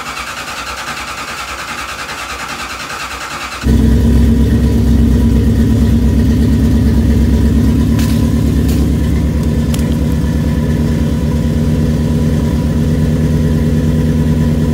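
Toyota 1UZ V8 turned over by its starter for a few seconds, then catching about four seconds in and settling into a steady idle: a loud, low, pulsing rumble from the side-exit exhaust with stainless tips.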